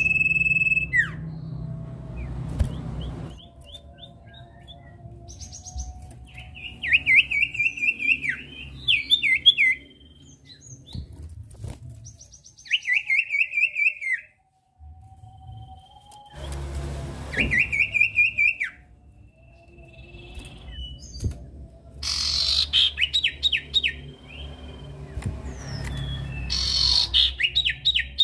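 Common iora (sirtu, cipoh) singing: phrases of rapid repeated chirps, each lasting one to two seconds, given again and again with short pauses, over a low rumble.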